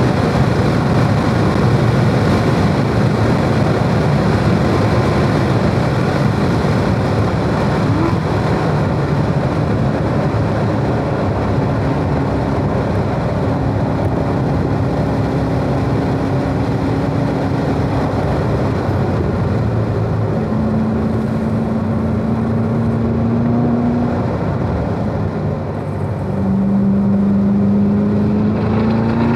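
Corvette Z06's supercharged V8 and heavy wind and tyre noise at racing speed, heard from inside the car. The engine note drops as the car slows from high speed and shifts down for a corner, then rises again near the end as it accelerates out.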